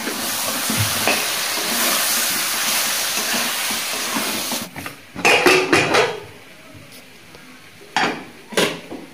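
Spiced chicken and potatoes sizzling in an aluminium kadai while a metal spatula stirs and scrapes them. The sizzle stops about halfway, followed by a quick run of metal clanks and then two more clanks near the end.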